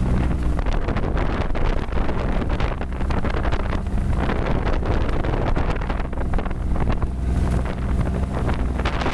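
Boat engine running at a steady pace under way, with wind buffeting the microphone in gusts and the rush of water.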